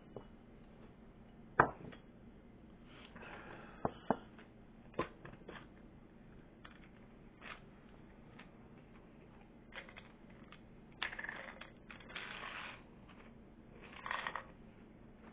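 Crunchy chocolate chip cookies being bitten and chewed close up, in a few short crunching bursts, the longest about eleven to thirteen seconds in. A few sharp knocks come in between, the loudest about a second and a half in.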